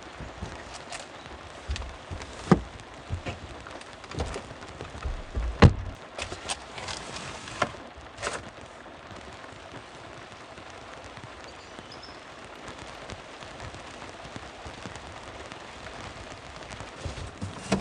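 Steady rain falling. In the first half come scattered sharp knocks and clicks, two of them louder than the rest; after that only the even rain remains.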